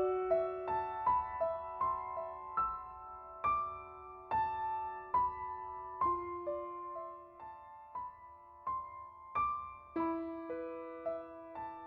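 Soft, slow solo piano background music, single notes struck about once or twice a second and left to ring.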